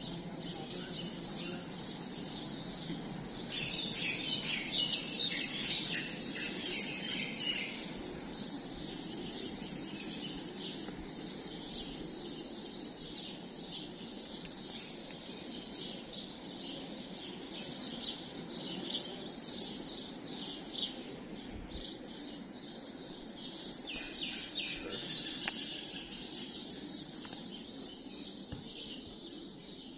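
Small birds chirping in quick high bursts, loudest about four to eight seconds in and again near the end, over a steady low background noise.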